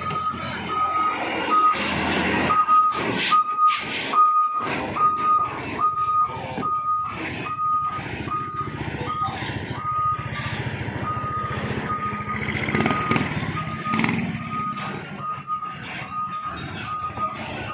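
A truck's warning beeper sounding steadily about twice a second over the truck's engine running. There are sharp knocks and clatter in the first half.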